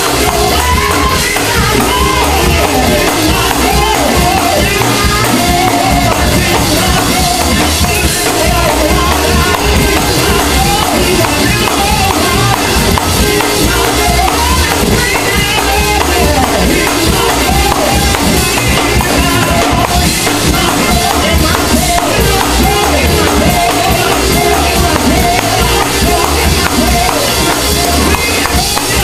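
Live gospel praise-and-worship music: voices singing over keyboard, drums and tambourine, loud and continuous.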